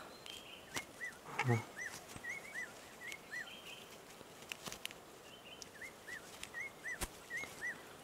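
A bird giving short, arched chirps, about three a second, in two bouts with a pause between them, over scattered clicks of handling; a brief low voice sound comes about one and a half seconds in.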